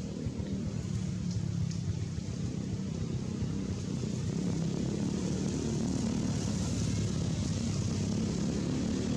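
A low engine drone of a passing vehicle or aircraft that grows steadily louder toward the end.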